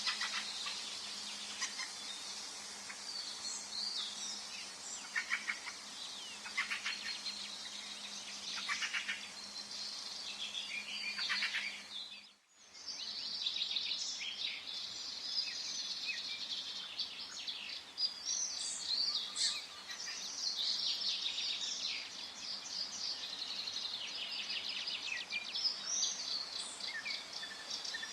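Forest ambience of many songbirds singing and calling at once, short chirps and fast trills over a soft steady hiss. About twelve seconds in the whole sound dips almost to silence for a moment, then the birdsong resumes, busier than before.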